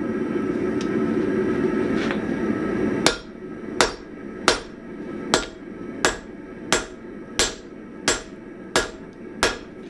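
Blacksmith's hammer striking hot 1045 steel on an anvil while drawing down an axe blank: about ten ringing blows at a steady pace, roughly three every two seconds, starting about three seconds in. Before the blows, a steady rushing noise.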